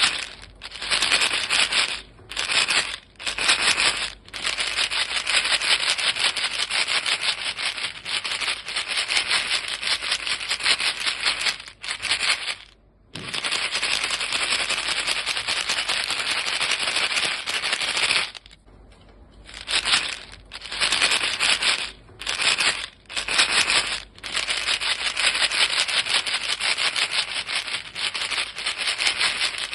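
A small box of chewing gum pellets shaken fast, the pellets rattling against the box in long runs broken by several short pauses.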